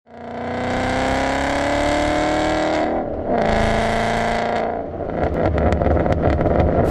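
Car engine accelerating hard, its pitch climbing steadily, then a brief break and a second pull at a lower, steadier pitch. In the last two seconds it gives way to a rapid run of crackling pops.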